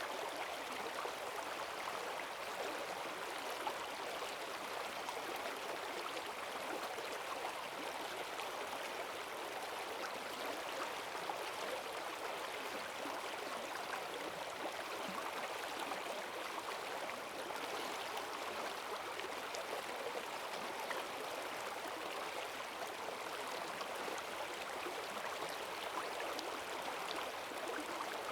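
Forest stream swollen by heavy rain, its water rushing steadily over the streambed.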